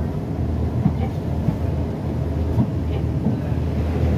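Train running along the line: a steady low rumble with irregular knocks and rattles.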